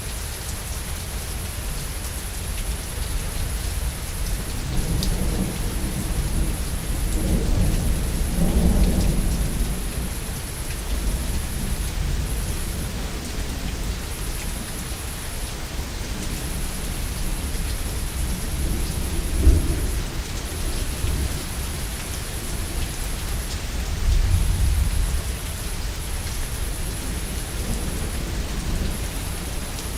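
Steady rain with thunder: a long low rumble builds and fades about five to ten seconds in, a short sharp clap comes about two-thirds of the way through, and a shorter rumble follows a few seconds later.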